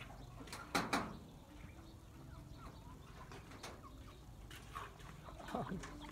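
Scattered short bird calls in the background, with a louder sharp sound about a second in and another, shorter burst of calls about five and a half seconds in.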